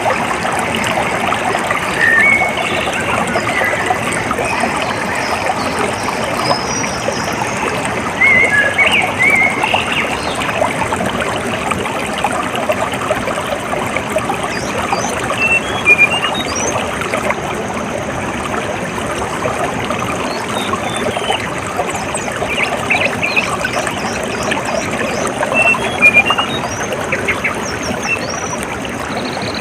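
Water running steadily in a stream, trickling and splashing, with small birds chirping now and then over it.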